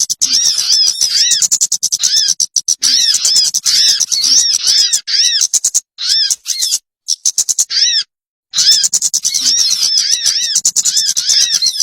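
Recorded bird call played as a trapping lure (pikat): a fast, harsh chatter with repeated rising-and-falling notes, broken by several abrupt silences where the recording cuts out.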